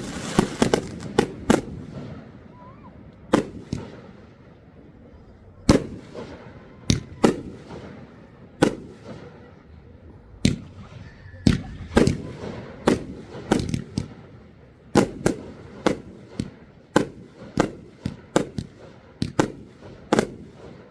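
Fireworks going off: a string of sharp bangs at irregular intervals, each with a short echo. There is a brief lull a couple of seconds in, after which the bangs come at about one or two a second.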